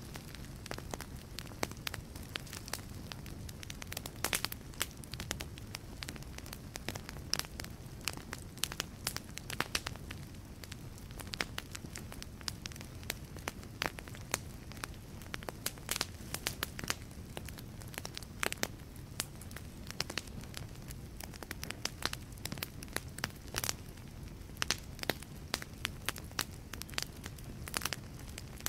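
Wood logs burning in a fireplace, with dense, irregular crackles and pops over a low, steady rumble of flame.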